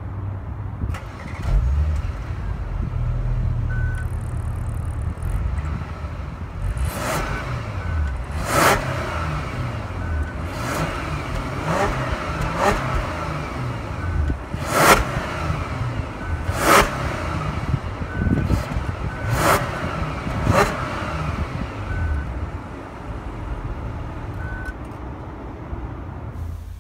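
2016 Audi A8 L's 3.0-litre TFSI V6 idling with a steady low rumble, then revved in a string of short throttle blips, about one every second or two, in the middle of the stretch.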